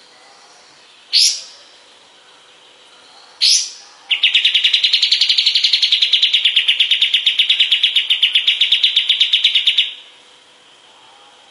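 Kapas tembak songbird calling: two short rising chirps about two seconds apart, then a long, rapid trill of evenly repeated notes lasting about six seconds.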